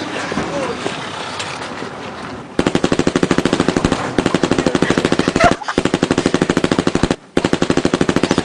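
Rapid automatic gunfire: long bursts of about a dozen shots a second, starting about two and a half seconds in, with brief breaks between bursts.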